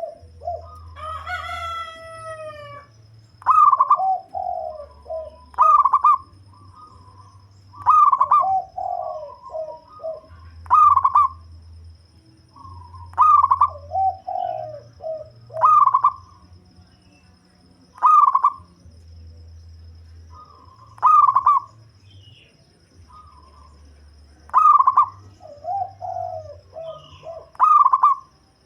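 A deep-voiced local zebra dove (perkutut) singing its staccato cooing song, the same short phrase repeated about every two to three seconds. About a second in, a rooster crows once, a longer call that falls in pitch.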